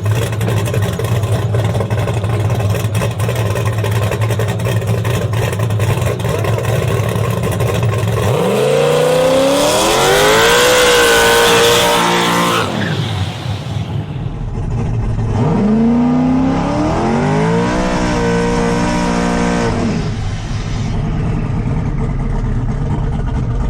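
Twin-turbo Chevy Silverado drag truck's engine running at the line, then accelerating hard down the strip with its pitch climbing in steps through the gear changes. The hard run is heard twice, about eight seconds in and again from about fifteen seconds.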